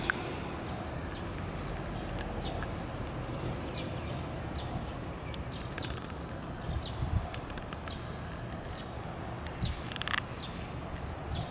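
A small bird chirping over and over: short, high chirps that slide downward, about one a second, over a steady low outdoor rumble.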